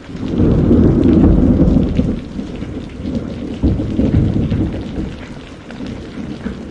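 Rain falling steadily while a roll of thunder rumbles in just after the start, loudest over the next second or two, swells again about halfway through, then dies away.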